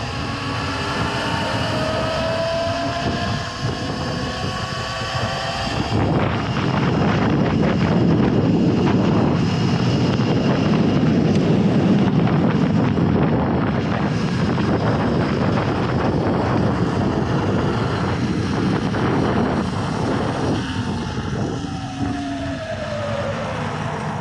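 Surron electric dirt bike riding, its electric motor giving a whine that glides in pitch with speed, mostly in the first six seconds and again near the end. From about six seconds in, a heavy rush of wind on the microphone takes over.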